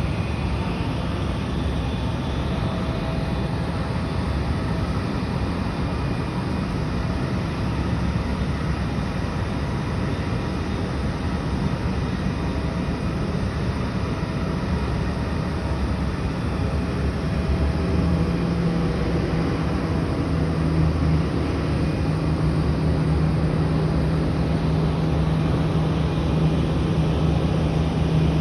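Boeing 777 jet engine noise: a steady, even rush with a low hum underneath, which grows a little louder about two-thirds of the way through.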